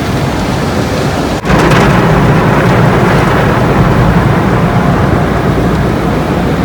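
Automatic car wash heard from inside the car: a loud, steady wash of water spraying and drumming on the car's body and windows. It drops out briefly about a second and a half in, then comes back louder.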